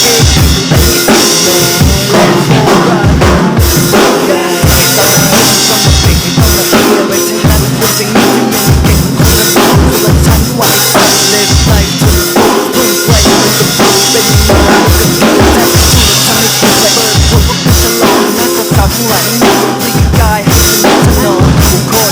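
Drum kit played hard along with the song's instrumental backing: kick drum, snare and cymbals in a steady rock beat over a sustained bass line.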